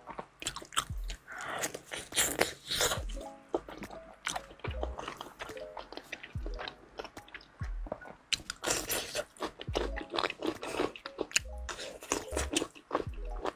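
Close-miked biting and chewing of a thick grilled eel fillet: many short, quick mouth sounds in a row. Background music with a light beat plays underneath.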